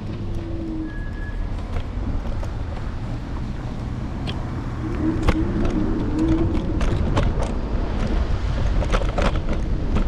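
Ride noise from an electric scooter moving along a city street, heard from a camera on its handlebars: a steady low road rumble with clicks and rattles. Car traffic passes, getting busier and a little louder about halfway through.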